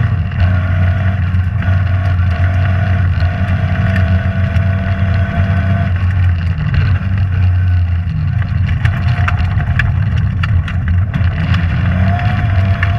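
Rally car engine running hard, heard from inside the cabin, with a steady high whine over the engine note that breaks off briefly twice. A run of sharp ticks and pings comes in the second half.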